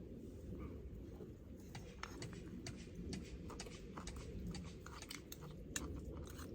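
A person chewing food close to the microphone, with many small irregular clicks and crunches starting about a second and a half in, over a steady low rumble.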